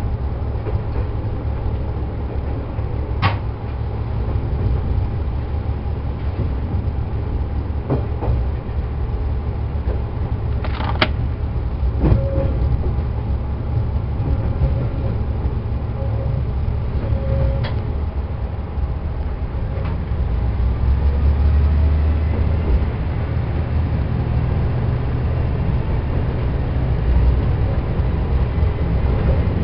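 Diesel railcar running along the track: a steady low engine drone with wheel-on-rail rumble, and a few sharp clicks as the wheels pass rail joints and points.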